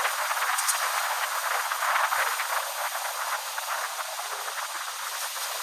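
Steady hissing noise with a faint rattle, like rushing air or machine noise.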